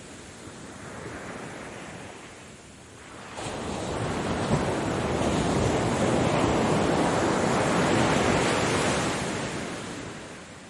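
Ocean waves: a small wave washes in, then about three seconds in a larger wave breaks with a sudden loud rush of surf that holds for several seconds and fades away near the end.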